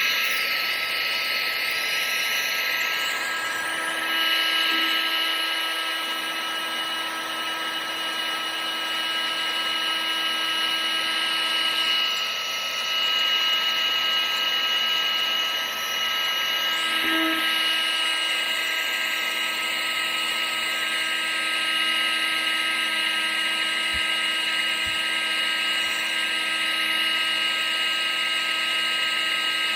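Household appliance motor running steadily: a constant rush of air with a high, steady motor whine, used as continuous white noise.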